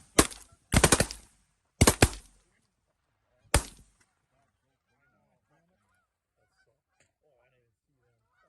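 A quick volley of shotgun blasts from several hunters over the first four seconds, with a single last shot about three and a half seconds in. After that come faint honking bird calls.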